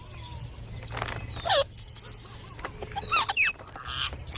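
Green parrot calling: a few short, sharp calls that sweep steeply downward in pitch, and a quick run of high repeated chirps near the middle.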